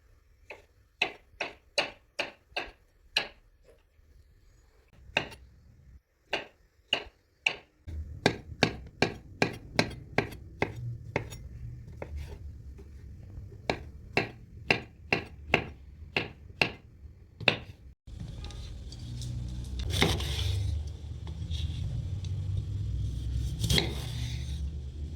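Knife chopping on a cutting board: quick, regular knocks about two to three a second, with a short pause partway through. About 18 seconds in it gives way to a steady low rumble with a couple of clinks of dishes.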